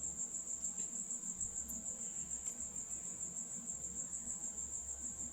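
Crickets chirring in a steady, high-pitched, evenly pulsing trill.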